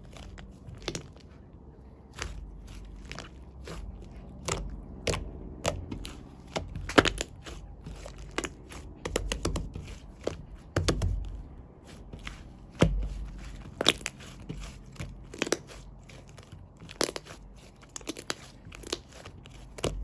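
Hands squeezing and poking shaving-foam slime, making irregular sharp clicks and pops of trapped air, a few each second, with soft squishy thuds beneath.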